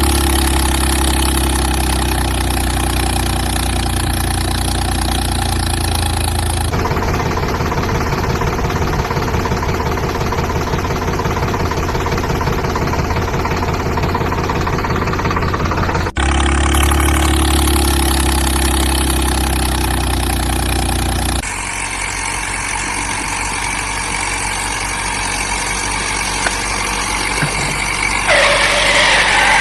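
Vehicle engine sound running steadily, made of several segments that change abruptly about 7, 16 and 21 seconds in, with a louder, different sound starting near the end.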